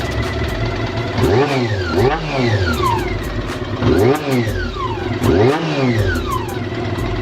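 Honda CB400 Super Four's inline-four engine idling and revved in several quick blips, with a light ticking over the top. The owner finds the cylinder head noisy and suspects a valve tune-up problem with the shims.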